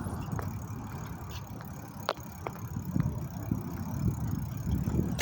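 Riding noise from a bicycle ride: a low, uneven rumble with scattered light clicks and rattles, one sharper click about two seconds in.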